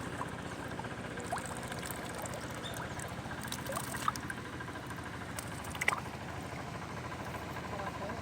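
Light water splashes and drips from hands moving in shallow river water, with a few sharper splashes about four and six seconds in, over a steady low motor hum.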